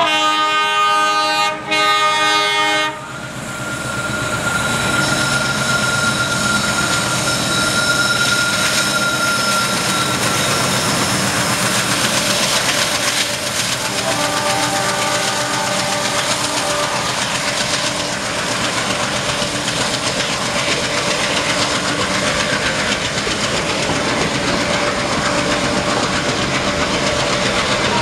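Indian Railways trains running past on the rails with a steady rattle and rumble of wheels. A locomotive's multi-tone horn sounds in two blasts at the start, again for a few seconds around the middle, and once more near the end.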